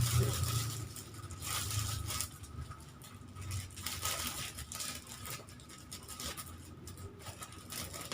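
Plastic snack packets and wrappers rustling and crinkling in irregular bursts as they are handled and packed into bags.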